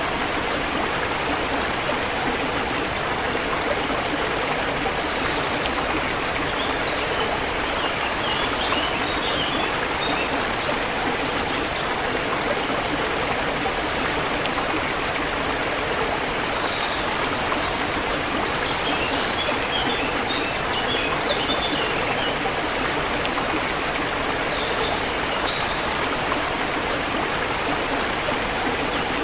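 Forest river water flowing steadily, with faint bird chirps now and then.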